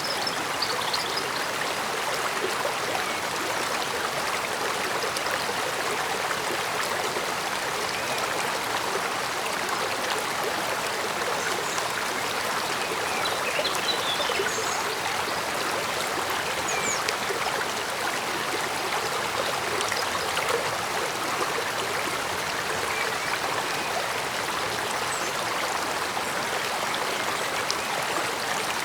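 Stream water flowing steadily, a continuous even burble of running water.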